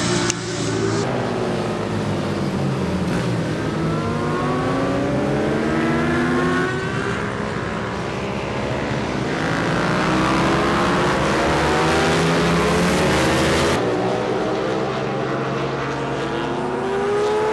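Racing motorcycle engines at high revs on a track, their pitch climbing and dropping again and again through gear changes, more than one engine heard at once. The sound changes abruptly about fourteen seconds in.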